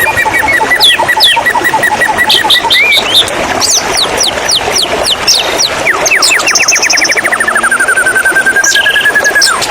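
White-rumped shama singing a varied, rapid song over running water: a fast string of repeated notes, then quick falling notes and trills later on.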